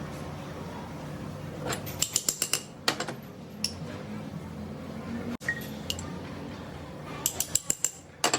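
Sharp metallic clicks and clinks of steel tools and pump parts being handled, coming in quick runs of five or six, twice, with single clinks between, over a low steady hum.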